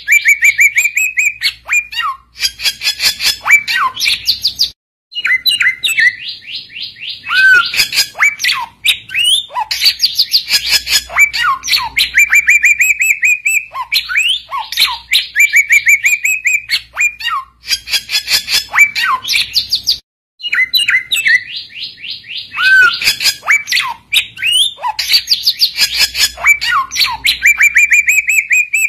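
Samyong songbird singing loudly in fast, chattering trills of high chirps and short whistled glides, in phrases that repeat, with brief breaks about five and twenty seconds in. This is the gacor (full, energetic) song used to call and provoke rival samyong.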